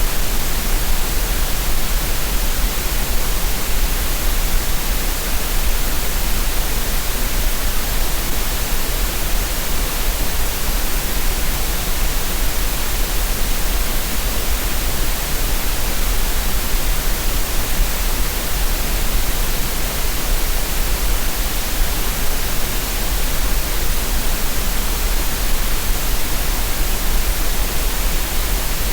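Steady synthetic green noise, the kind of masking sound played for relaxation and tinnitus relief: an even, unbroken hiss over a strong low rumble, with no change in level or character.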